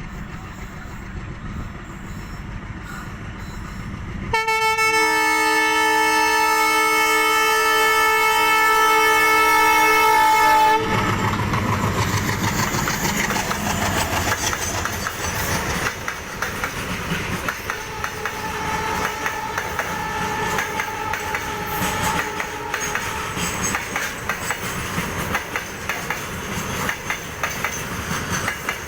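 Passenger train at a station: a low rumble, then the locomotive's horn sounds one long, steady chord of several notes for about six seconds. The horn cuts off and the coaches roll past, their wheels clattering rhythmically over the rail joints.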